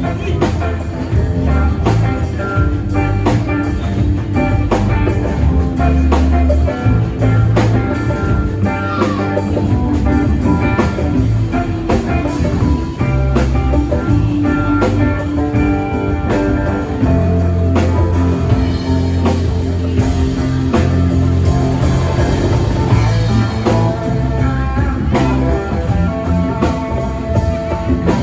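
Live rock band playing an instrumental jam: electric guitar leads over drums and a heavy low bass line, in a psychedelic, blues-rock style.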